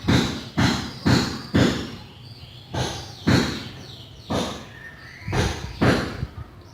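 Quick swiping strokes of a finishing applicator across a wooden cabinet, spreading water-thinned clear wood finish; about nine short strokes roughly half a second apart, with a pause near the middle.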